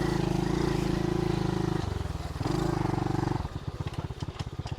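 SSR110 pit bike's small single-cylinder four-stroke engine running at a steady speed, easing off briefly about two seconds in and picking up again. It then drops to a lumpy idle with distinct, uneven firing pulses near the end.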